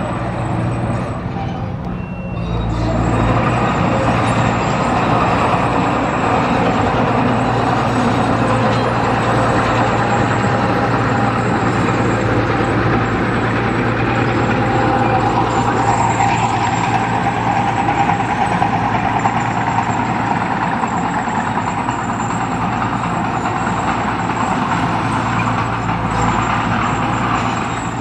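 Heavy diesel construction machine running steadily, its engine noise growing louder about two and a half seconds in and then holding.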